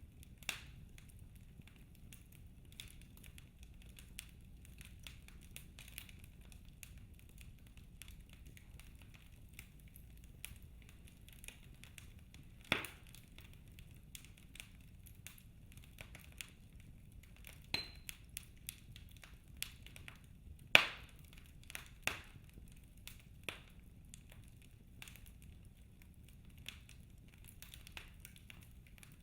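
Wood fire burning in a fireplace, crackling: scattered small snaps and clicks with a few louder pops, about 13 and 21 seconds in, over a low steady rumble.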